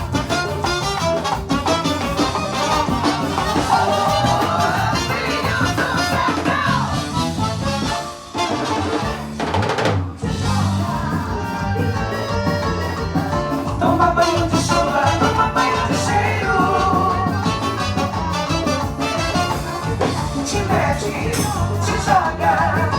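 Live band music at a sound check: an upbeat song with drum kit and singing, briefly dropping back about eight seconds in before the full band returns.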